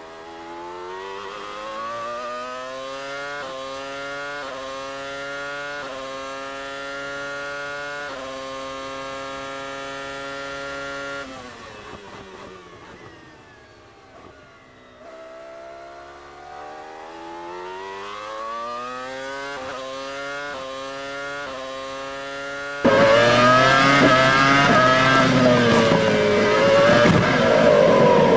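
Formula 1 V10 engine heard onboard, pitch climbing and snapping down through a run of quick upshifts, then falling away through the downshifts under braking about 11 seconds in, before pulling up through the gears again. About 23 seconds in the sound jumps suddenly much louder and rougher, with the engine note wavering up and down.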